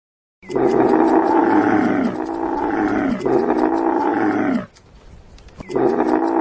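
A large animal bellowing: three long, loud calls in a row that each fall in pitch, then a short pause and a fourth call starting near the end.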